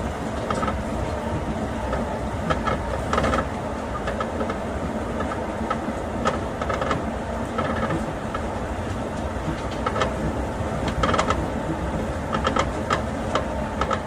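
Inside a rubber-tyred Astram Line 6000 series automated guideway train car while it runs: a steady rumble of running noise with irregular short clicks and knocks scattered through it.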